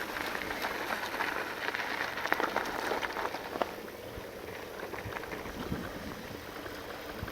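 Full-suspension e-mountain bike riding down a gravel bike-park trail: tyres crunching over the loose surface, with many small rattling clicks from the bike. It drops a little quieter about three and a half seconds in.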